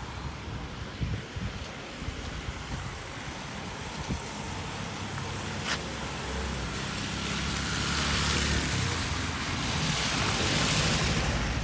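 Road traffic on a rain-soaked street: an engine rumble, with the hiss of tyres through water swelling in the second half as vehicles pass.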